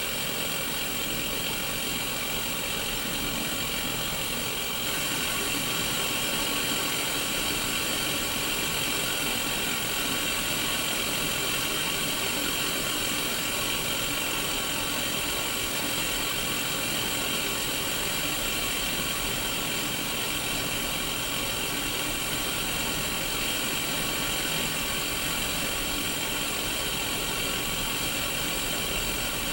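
Static hiss from a Sony Mega Watchman black-and-white mini CRT TV showing no signal, steady, with faint steady tones running under the hiss and a slight rise in level about five seconds in.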